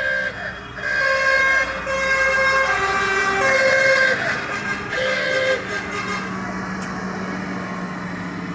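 Vehicle horns sounding a run of loud held blasts at several different pitches, breaking off and restarting over the first five or so seconds, with an engine running steadily underneath.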